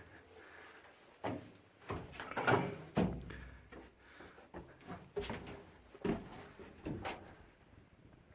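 Irregular knocks, thumps and scrapes, about half a dozen, the loudest between two and three seconds in: the sound of someone moving about inside the cabin of a small crashed aircraft wreck and bumping against it.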